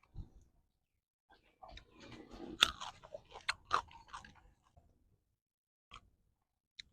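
A person chewing and crunching food close to the microphone, in a dense run of crackly bites between about one and a half and four and a half seconds in.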